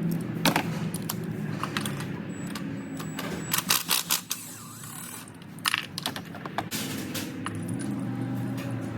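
Metal tools clinking and clicking in sharp, irregular knocks over a steady low hum.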